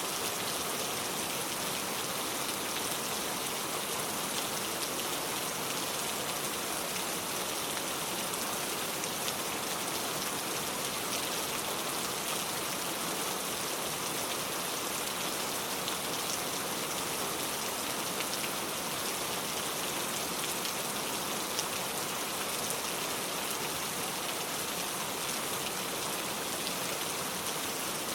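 Steady rain falling on a car, a dense even patter of drops with occasional slightly sharper single drops.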